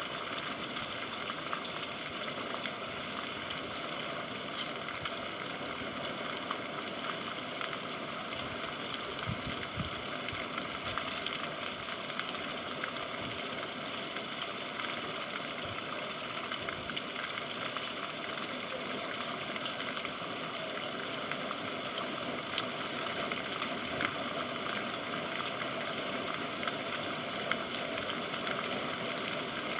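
Steady rain falling, a dense even hiss of drops with fine ticks scattered through it.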